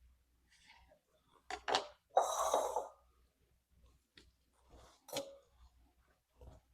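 Kitchen knife dicing green tomatoes on a cutting board: a few irregular knocks, with a short scrape a little over two seconds in.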